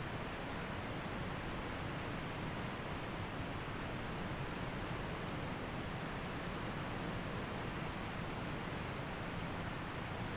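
Waterfall and mountain creek rushing steadily, a constant even sound of falling and flowing water.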